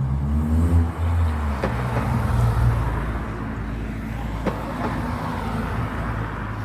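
Car engine running at low revs as a car drives slowly past, a steady low rumble that eases a little after a few seconds.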